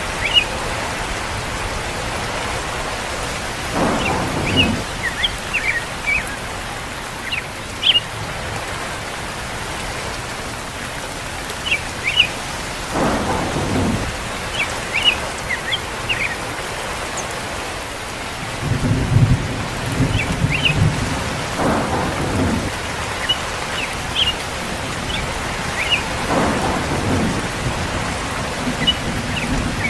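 Steady heavy rain with low rolls of thunder swelling up several times, the longest about two-thirds of the way in. Birds chirp briefly now and then over the rain.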